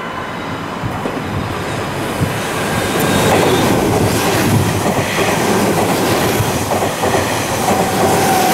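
Meitetsu 2200 series electric train running past close by, its wheels clattering over the rail joints. It grows louder about three seconds in as the cars go by.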